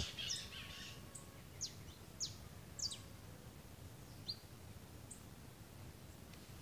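Faint, high bird chirps: four or so short calls, each dropping quickly in pitch, scattered over a few seconds, over low outdoor background noise.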